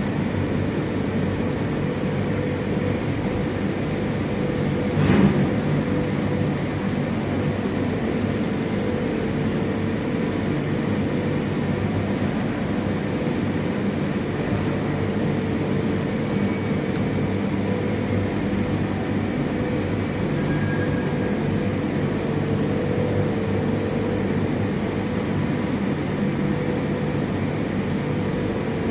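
Steel rolling-mill plant machinery running with a steady drone and a constant hum, broken by one loud bang about five seconds in.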